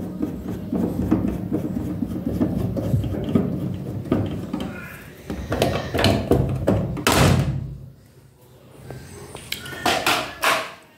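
Clicks, knocks and thuds of hands working on a washing machine's casing and parts, with a louder sharp knock past halfway and a cluster of sharp knocks near the end.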